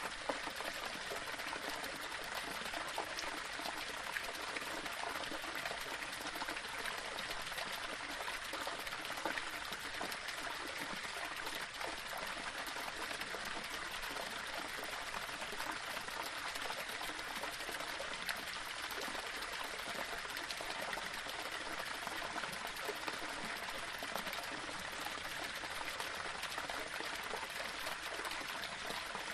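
A small waterfall pouring and splashing over rocks: a steady, even rush of running water with many small splashes.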